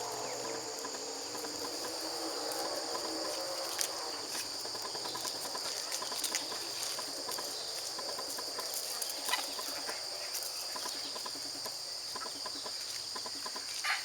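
Steady high-pitched chorus of insects trilling without a break, with a few faint clicks scattered through it.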